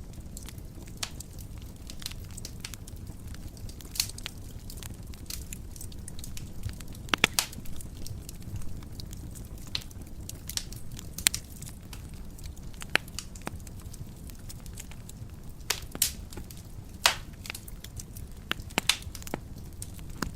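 Wood fire burning in a fireplace, a steady low rumble of flames with irregular sharp crackles and pops, a few of them louder snaps.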